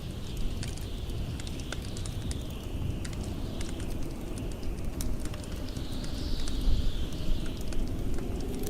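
Wood fire crackling with scattered sharp pops over blizzard wind, a low rumble with a high whistle that swells and fades, strongest about six seconds in.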